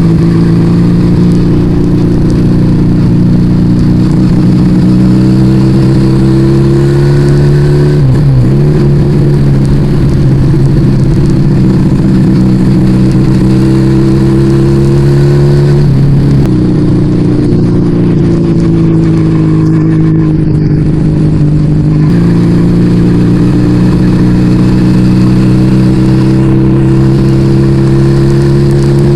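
Yamaha Vega ZR motorcycle engine running under load through an aftermarket Arrow exhaust while riding. The engine note climbs slowly, dips sharply about eight seconds in, climbs again, falls back around sixteen seconds in and picks up again a few seconds later.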